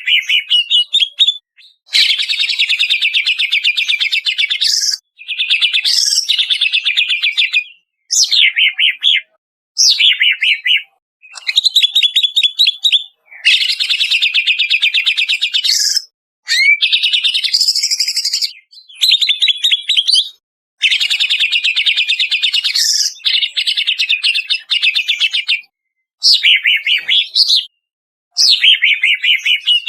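Greater green leafbird (cucak ijo) singing: loud, high phrases of rapid chattering trills and fast repeated notes, each one to three seconds long, separated by brief pauses.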